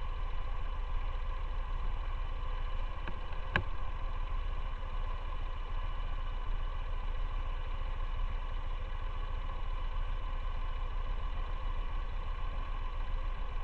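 Motorcycle engine running steadily with a low rumble, and a single sharp click about three and a half seconds in.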